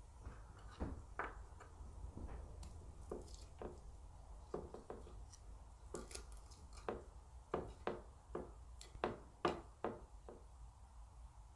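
Faint, irregular light knocks and clicks of kitchen utensils and tableware, a couple of dozen short taps spread unevenly and bunched together in the second half.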